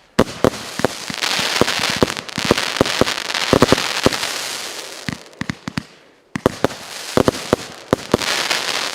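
An 88-shot, 1-inch-calibre consumer fireworks cake firing: rapid sharp reports of shells launching and bursting over a dense crackling hiss from crackle-effect stars. It comes in two waves, with a brief lull about six seconds in.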